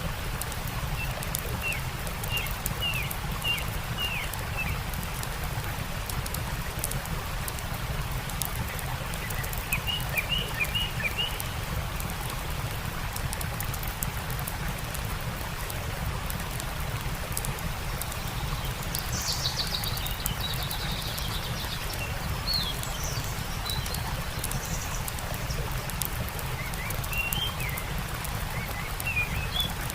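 A campfire crackling with scattered sharp pops over a steady rushing stream, while birds chirp in short runs of quick descending notes a few times, with a higher call midway.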